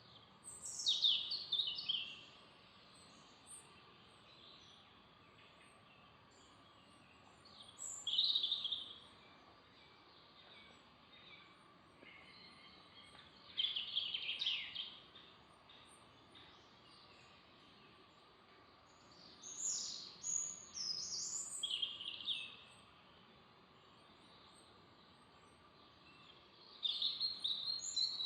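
Songbird singing short, high, quickly warbled phrases, five in all, each a second or two long and about five to six seconds apart, over a faint steady background hiss.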